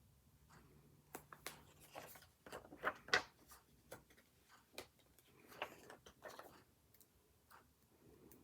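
Light clicks, taps and short paper rustles from hands working a paper planner and stationery, most frequent in the middle of the stretch.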